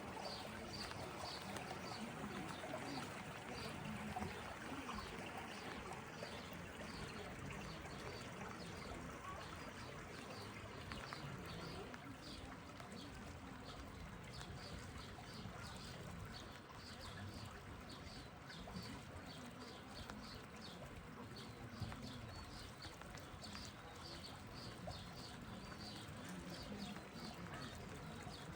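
Rain with water trickling and running, a steady even hiss, with a faint regular ticking about twice a second.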